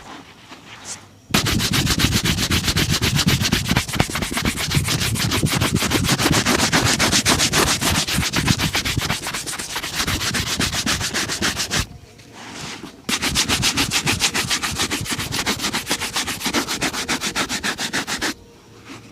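A shoe being buffed hard and fast during a shoe shine, a rapid, even run of rubbing strokes. It starts about a second in, breaks off briefly past the middle, then resumes for a few more seconds before stopping.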